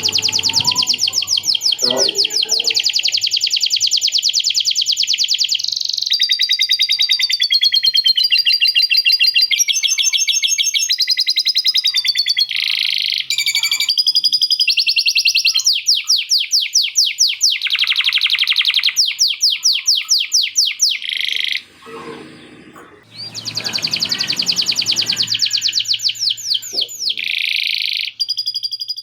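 Male canary singing a long, loud song of fast trills and rapidly repeated notes, switching to a new phrase every second or two, with a short break just past the middle. The song carries lovebird-style chatter phrases learned as fill.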